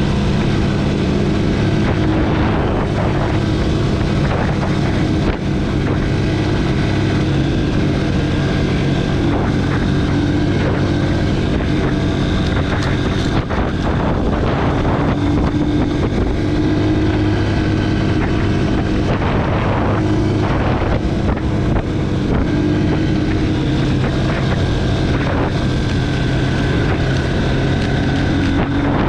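Honda CRF230F's single-cylinder four-stroke engine running under way, its pitch shifting a little with the throttle, heard from a camera mounted on the bike, with wind buffeting the microphone.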